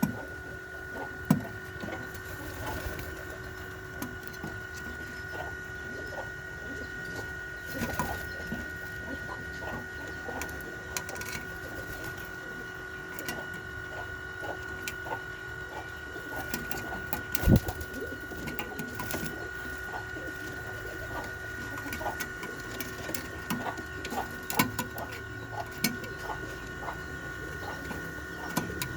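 A pigeon or dove cooing, among many small scattered clicks and taps, with two sharper knocks. A steady high tone runs underneath.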